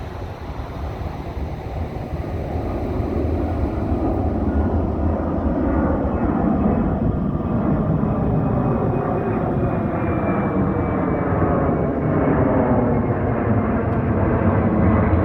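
Boeing 767-300F freighter's two GE CF6-80C2 turbofan engines at takeoff power: a loud jet rumble that grows over the first few seconds and then holds steady. Faint whining tones fall slowly in pitch as the aircraft passes.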